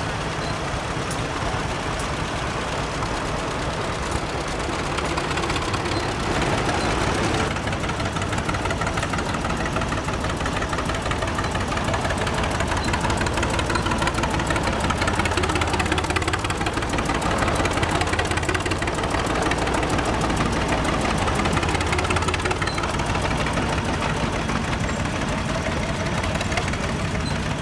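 Antique farm tractor engines running with a rapid, even firing beat, their pitch gently rising and falling and the sound growing a little louder toward the middle.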